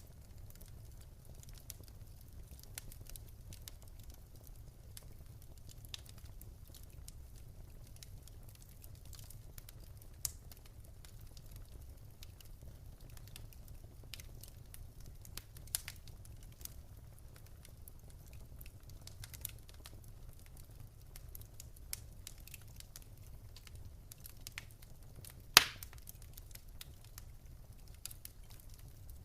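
Wood fire burning in a fireplace: a low steady rumble with scattered crackles and pops, and one sharp loud pop near the end.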